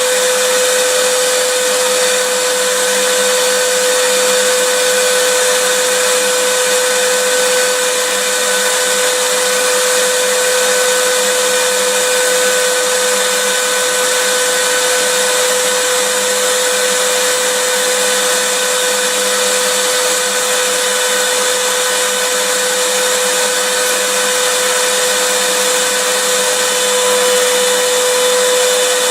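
Vacuum cleaner running steadily: a loud, even rushing noise with a steady motor hum, unchanging throughout.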